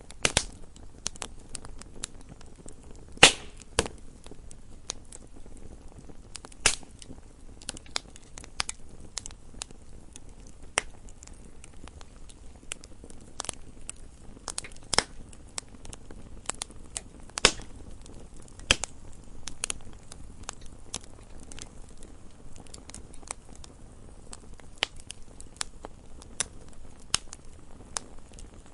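Wood fire burning in a fireplace: irregular crackles and pops over a low hiss, with a loud pop about three seconds in and others near seven and seventeen seconds.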